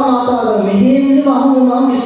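A person's voice speaking continuously, in a drawn-out, sing-song way, in a language other than English: the sermon being interpreted.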